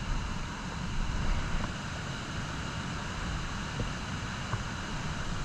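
Wind buffeting the microphone over a steady low rumble, with a few faint ticks.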